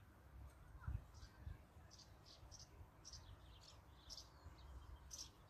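Faint birds chirping: a string of short, high chirps through most of the stretch, over a low rumble, with a soft bump about a second in.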